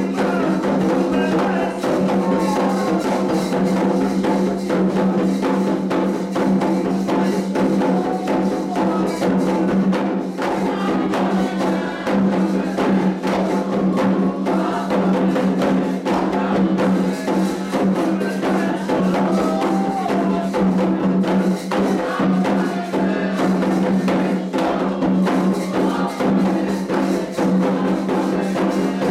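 Candomblé ritual drumming on atabaque hand drums, a dense unbroken percussion rhythm with a struck bell or wood-like click over it, played to call and accompany the orixá Oxum's dance.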